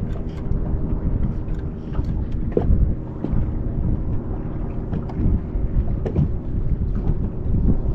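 Wind buffeting the microphone on a fishing boat: a steady low rumble with a faint even hum underneath and a few light knocks.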